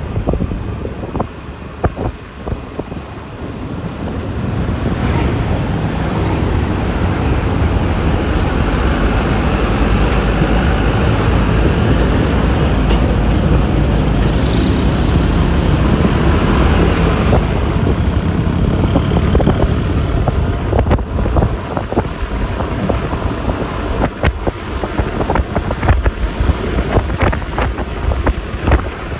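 Wind rushing over the microphone of a moving scooter, with road noise beneath. It grows louder about four seconds in and turns gusty near the end.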